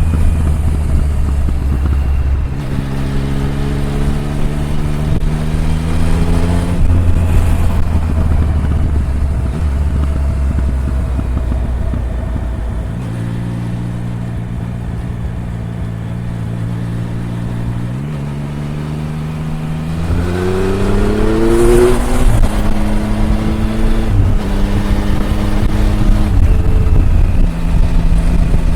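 Triumph Tiger 1050's inline three-cylinder engine pulling under way. Its note rises under throttle and drops back in steps with each gear change, several times, with a sharper climb about 20 seconds in.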